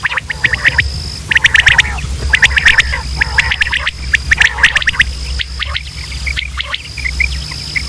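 Quail calling: several quick bursts of sharp, rapidly repeated high notes, over a steady high-pitched whine and a low hum.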